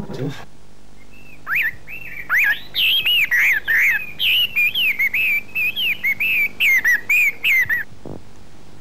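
Birdsong: a songbird giving a quick run of varied chirping notes that slide up and down in pitch, starting about a second and a half in and stopping about eight seconds in.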